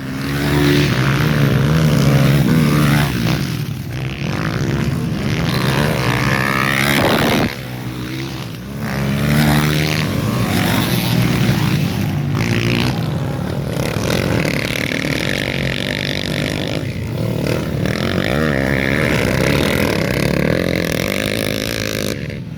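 Dirt bikes racing, their engines revving up and down through the gears so the pitch keeps rising and falling.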